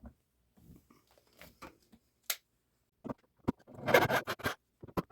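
Hands working on fittings make scattered small clicks and knocks, with one sharp click a little over two seconds in. Near the end comes a louder stretch of scraping and rustling.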